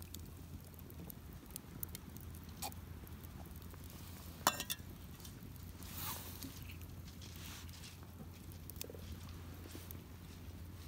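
Campfire crackling: sparse small pops and clicks, with a short cluster of sharp cracks about halfway through, over a steady low hum.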